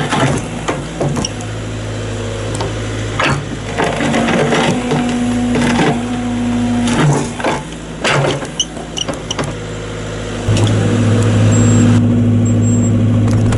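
JCB 85Z-1 8-tonne excavator running steadily while its toothed bucket digs at a fir stump's roots, with repeated sharp knocks and cracks of the bucket against wood and ground. About ten seconds in the engine gets louder as it takes load.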